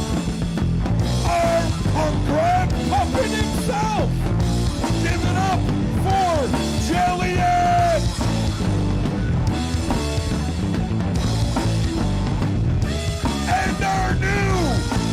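Loud rock song with singing over a full band. Sung lines run through the first half, then an instrumental stretch, and the voice comes back near the end.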